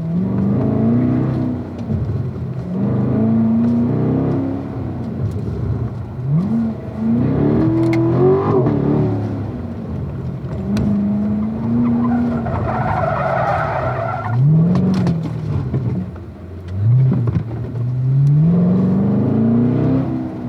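Chevrolet Corvette C7 Z51's 6.2-litre V8 engine accelerating hard and falling back repeatedly, its pitch climbing and dropping about six times, heard from inside the cabin. About thirteen seconds in, the tires squeal for about two seconds as the car slides.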